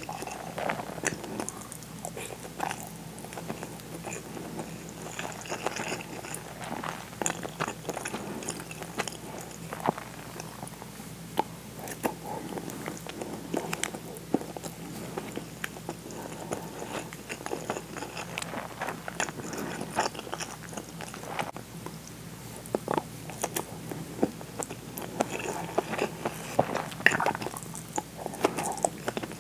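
A person chewing mouthfuls of steamed white rice, with many small irregular wet mouth clicks.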